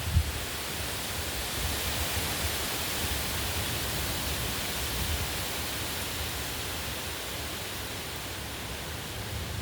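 Heavy wind blowing ahead of rain: a steady, even hiss over a low, uneven rumble.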